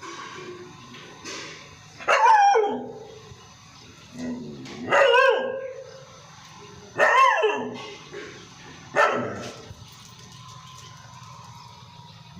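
Labrador barking: four loud barks about two seconds apart, each dropping in pitch, with a couple of softer barks between them.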